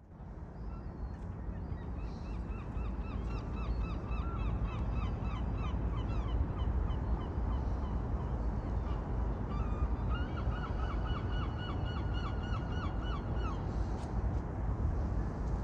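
Large birds calling in long runs of short, quick, repeated notes, in two bouts, over a steady low rumble of background noise.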